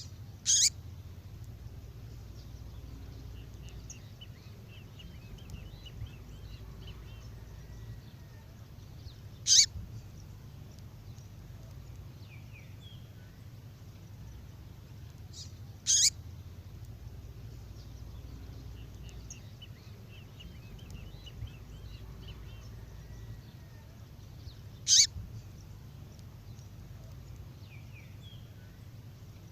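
Female songbird call: a sharp note sweeping quickly downward in pitch, given four times several seconds apart, with faint twittering between the calls over a steady low hum.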